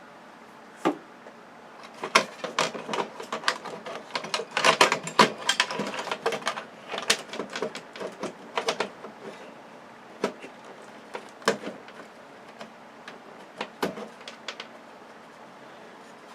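Clicks and knocks of a circuit board and loose metal parts being handled and turned over on a work surface: a dense clatter for several seconds, then scattered single clicks.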